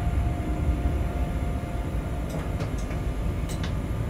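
Freight train heard from the driver's cab, rolling slowly with a steady low rumble. A few short, faint high-pitched clicks or squeaks come in the second half.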